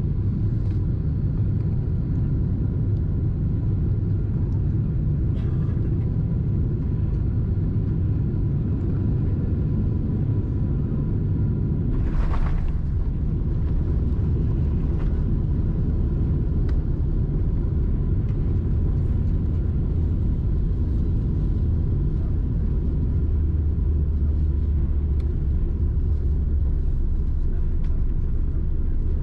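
Cabin noise of a Boeing 747-8 rolling on the ground after touchdown: a steady low rumble of the airframe and engines, with a brief hiss about twelve seconds in.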